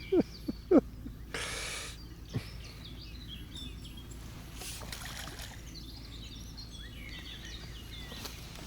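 Small birds singing and chirping in the background. About a second and a half in there is a brief rush of noise, like a splash, and a few short low grunts come right at the start.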